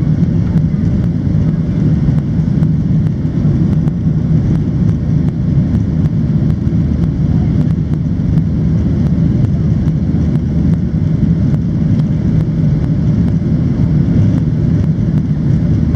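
Cabin noise inside a Boeing 737-700 under power: a loud, steady low rumble from its CFM56-7B turbofan engines and airflow, with no change in pitch or level.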